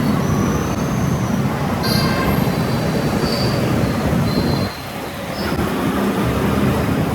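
Loud, steady rumble of moving vehicles with several short, high squeals over it; the rumble briefly drops about two-thirds of the way through.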